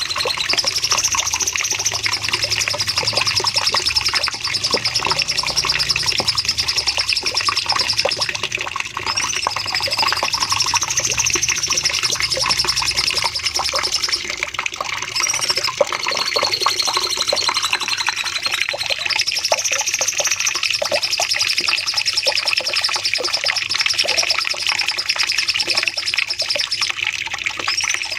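Cucak cungkok singing a long, fast, high trill, one rapid run of notes held for many seconds with only a few brief breaks.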